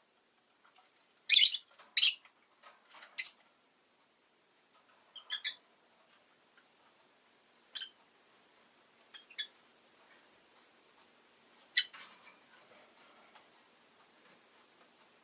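Rosy-faced lovebird giving short, sharp, high chirps: three loud ones in the first few seconds, then fainter single and paired chirps a couple of seconds apart.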